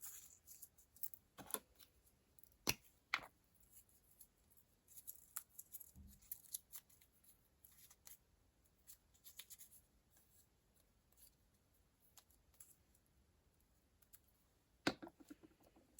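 Scissors snipping paper or sticker sheets, with soft paper rustling between a few sharper clicks.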